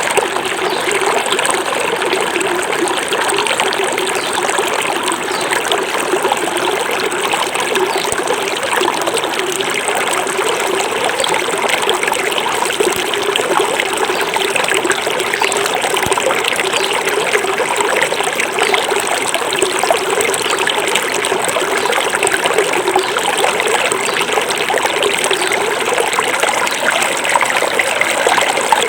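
Small forest river flowing, a steady babbling and trickling of water over stones.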